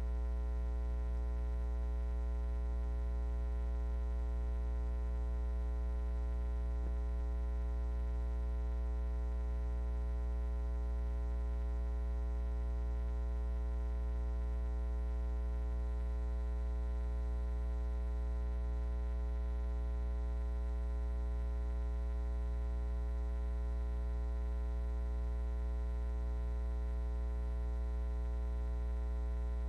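Steady electrical mains hum: a constant low buzz with a ladder of overtones, unchanging throughout.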